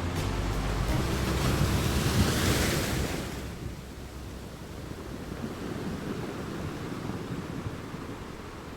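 Ocean wave breaking and washing up the shore, swelling to a peak about two to three seconds in and then falling away to a softer, steady wash.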